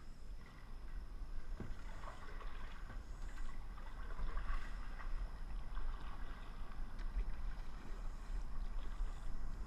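Water splashing and lapping around a kayak as it is paddled, over a steady low rumble.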